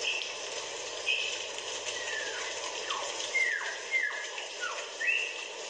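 Birds calling: short high chirps and several quick downward-sliding whistles, about four of them in a row, over a steady background hiss.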